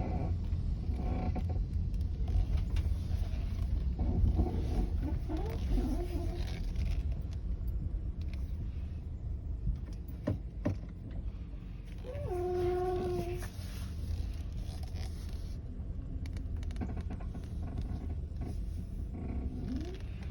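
Steering-related groan from a 2017 Chevrolet Malibu as the wheel is turned: short, rising, moaning tones over the car's steady low rumble. The clearest groan comes about twelve seconds in, with fainter ones about six seconds in and near the end.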